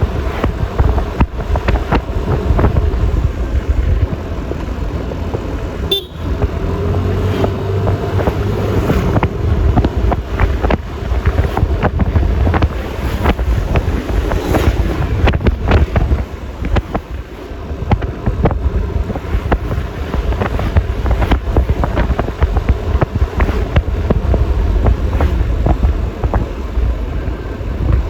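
Road noise from riding a Yamaha Lexi LX 155 scooter: wind buffeting the microphone in constant gusts over the rumble of the ride and traffic.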